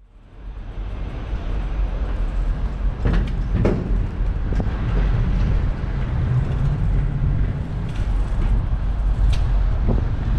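Steady low rumble of wind and road noise on a bicycle-mounted action camera, fading in at the start, with a few sharp knocks and rattles about three to five seconds in and again near the end.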